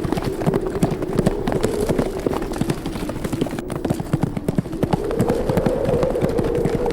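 Horses' hooves galloping, a dense, irregular drumming of hoofbeats, over a steady howling wind whose tone rises slightly about five seconds in.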